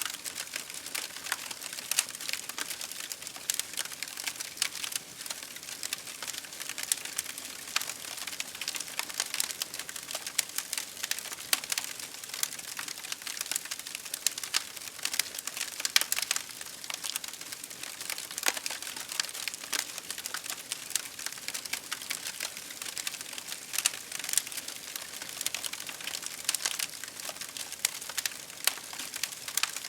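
Wood campfire crackling, a dense run of irregular sharp pops and snaps over a steady hiss.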